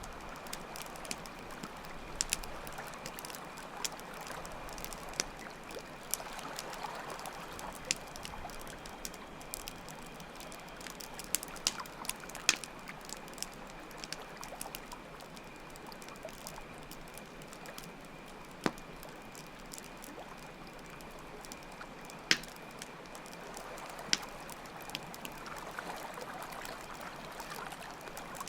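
Campfire crackling with scattered sharp pops over a steady trickle of running water, with a faint steady high trill of crickets.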